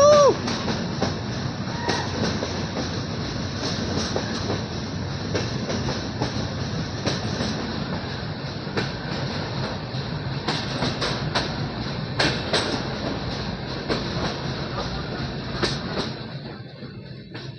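Passenger train coach running along the track: a steady rumble with irregular sharp clicks from the wheels over rail joints. A short rising tone opens it, and the rumble drops noticeably quieter near the end.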